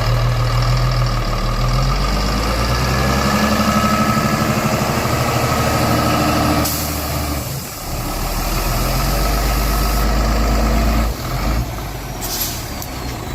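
Heavy off-road truck's diesel engine running, its pitch rising and falling. About seven seconds in a hiss of air starts and runs for about three seconds, and a short sharp air hiss comes near the end.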